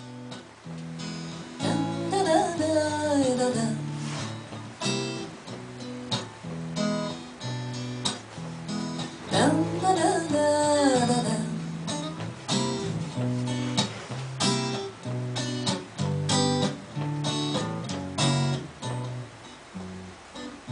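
Acoustic guitar strumming chords as a song's introduction, with two short wordless melodic phrases gliding downward over it, about two seconds in and again about nine seconds in.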